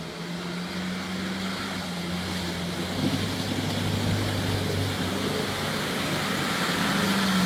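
A motor running steadily with a low hum, slowly getting louder.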